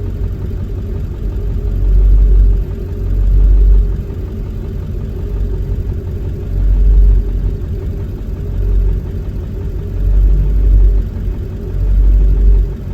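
Ford 7.3 L Power Stroke V8 diesel idling roughly, its low rumble swelling and dropping unevenly every few seconds. The rough idle comes with IDM code P1316, which points to an injector circuit or injector driver module fault.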